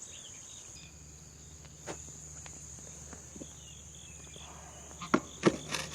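Crickets chirring steadily in the background, with a few sharp clicks or knocks near the end.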